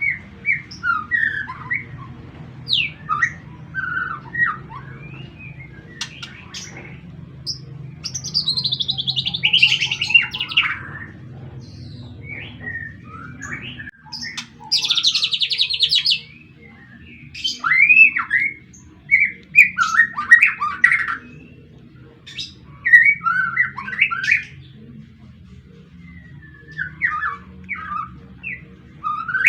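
Young white-rumped shama (murai batu) in its speckled juvenile plumage singing freely: a varied run of short whistled and chirping phrases, broken twice by longer, fast chattering trills near 8 s and 15 s. A steady low hum runs underneath.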